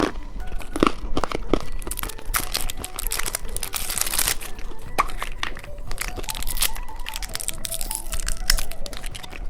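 Crinkly plastic candy packaging being handled and torn open, a dense run of irregular rustles and crackles that is busiest about three to four seconds in.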